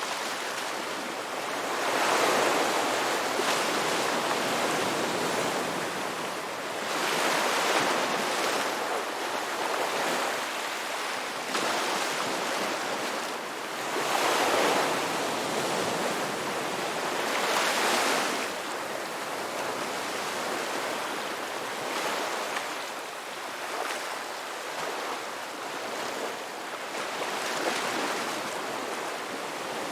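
Ocean waves breaking on a beach: a steady wash of surf that swells louder as waves come in, about four times in the first twenty seconds, then settles to a quieter, even wash.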